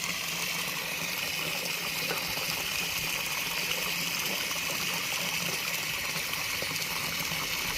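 Water running and trickling steadily, with an even hiss.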